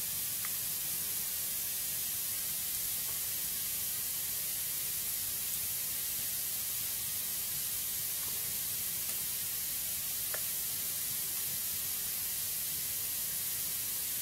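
Wood fire burning in a fireplace: a steady hiss with two faint crackles, one about half a second in and one about ten seconds in.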